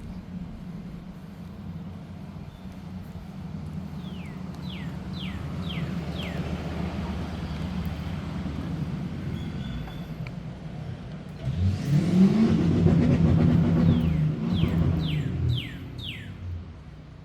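A motor vehicle draws near and passes close by, loudest for a few seconds from about two thirds through, its engine note rising and then falling as it goes by, over a steady low traffic hum. A bird sings two quick runs of four downslurred notes, one early and one near the end.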